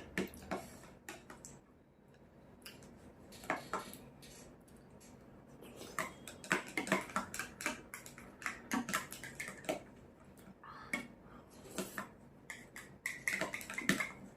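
Tableware clinking and scraping as someone eats: scattered, irregular light clicks, a few with a short ring.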